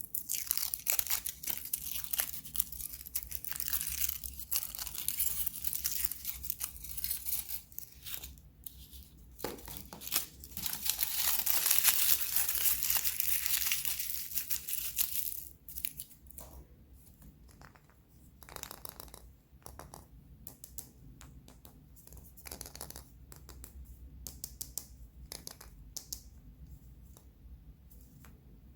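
Surprise egg and candy wrappers being unwrapped by hand: crinkling and tearing of the wrapper, with many sharp crackles. It is loudest and most continuous for several seconds in the middle, then thins to scattered faint crackles and clicks.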